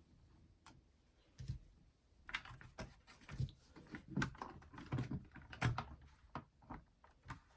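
Irregular clicks and knocks of hands handling the plastic housing and small parts of a clock radio during disassembly, starting about a second and a half in.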